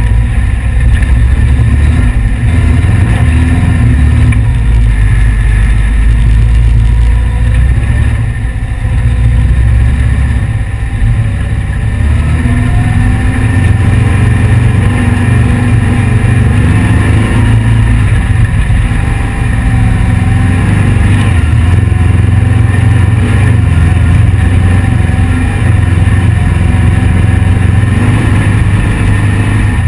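The 1835 cc air-cooled VW flat-four engine of a heavy desert sand car runs under way while cruising over sand. Its note shifts with the throttle, easing off briefly twice about eight and ten seconds in.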